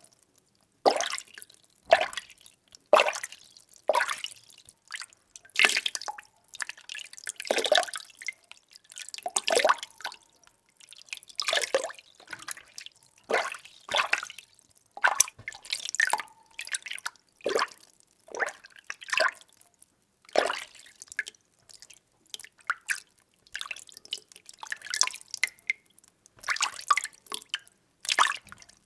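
Water being stirred in a container: short sloshing swishes, roughly one a second, with brief quiet gaps between them.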